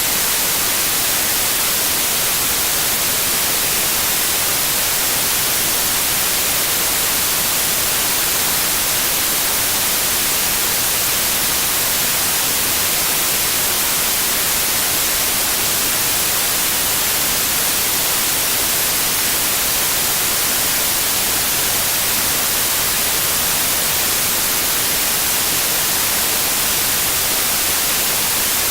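Steady synthesized white noise, an even hiss strongest in the treble, unchanging throughout.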